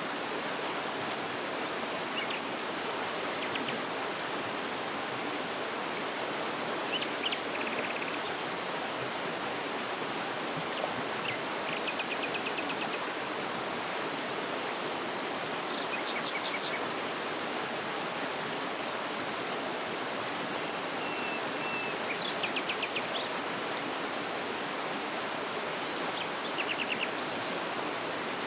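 Waterfall rushing steadily, with short bird calls above it every few seconds, each a quick run of rapid high notes.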